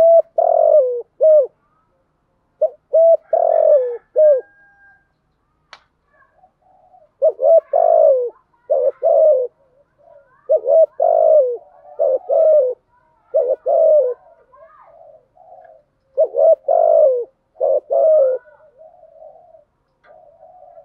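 Spotted dove cooing: repeated phrases of several low, slightly falling coos with short pauses between them. These are the pressing and calling coos used as a lure call to stir up decoy doves.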